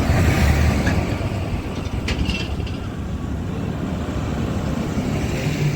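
Tractor engine running steadily on the road, a low rumble, with a brief clack about two seconds in.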